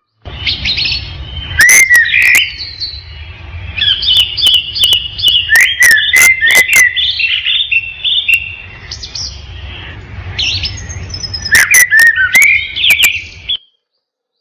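A bird singing: quick chirps and short whistled notes, several sliding down in pitch, mixed with sharp clicking notes, over a low steady rumble. It cuts off abruptly near the end.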